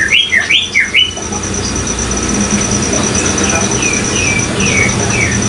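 Kolibri ninja (sunbird) singing: a quick run of sharp down-slurred chirps in the first second, then softer repeated down-slurred notes. A steady, fast-pulsing high trill runs underneath.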